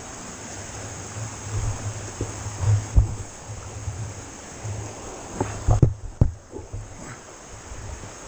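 Riding noise from an electric mountain bike on rough trail: wind buffeting the camera microphone in an uneven low rumble, over a steady hiss, with sharp knocks and rattles as the bike jolts, the strongest about three seconds in and twice around six seconds.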